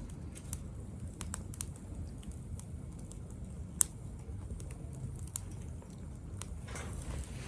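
Wood fire burning in a small B6-size cast-iron-style grill stove, crackling with scattered sharp pops over a low rumble; one pop, about four seconds in, is much louder than the rest.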